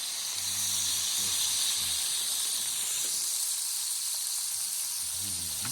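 Food sizzling with a steady hiss in a pan over a campfire.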